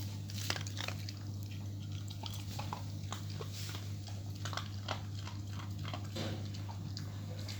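Dog chewing and biting its food, a run of small irregular crunching clicks, over a steady low hum.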